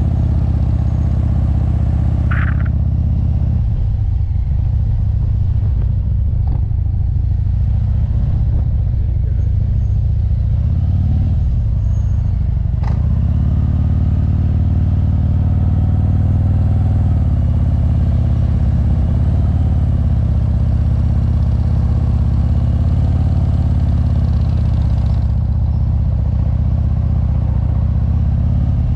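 Motorcycle engine running steadily at low revs, with a brief higher-pitched squeak about two and a half seconds in and a short click near the middle.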